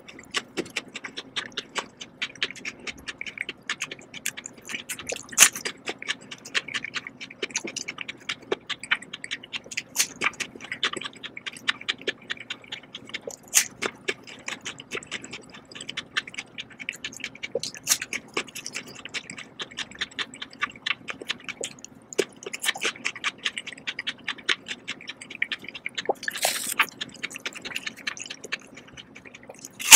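Close-miked chewing of crisp, juicy Korean melon: a steady run of small wet crunches and mouth clicks, with a louder, sharper crunch near the end.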